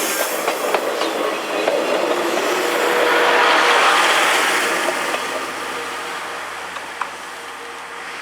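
Steam-hauled passenger train rolling past, its wheels clicking over rail joints. The rolling noise swells about three to four seconds in, then fades as the train moves away.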